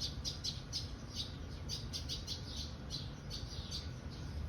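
Small bird chirping over and over, short high chirps at about three a second, with a low steady rumble underneath.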